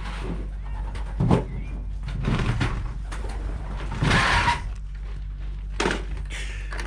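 Racing pigeons cooing in the loft, with several short noisy bursts, the loudest about four seconds in.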